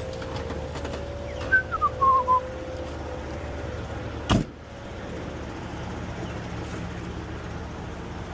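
A steady hum with a short falling whistle-like chirp about two seconds in, then a single sharp thump about four seconds in, as of the box truck's cab door shutting.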